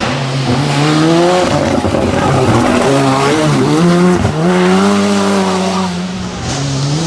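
Ford Sierra Cosworth Group A rally car's turbocharged four-cylinder engine at full throttle, its pitch climbing and falling with quick lifts and gear changes, then held high for a couple of seconds before dropping near the end.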